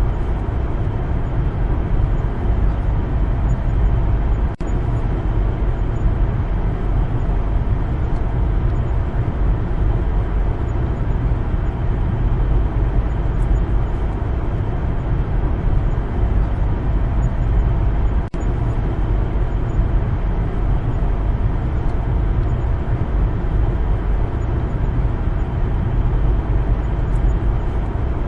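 Steady low rumble of a car driving: road and tyre noise with engine hum, briefly dipping twice.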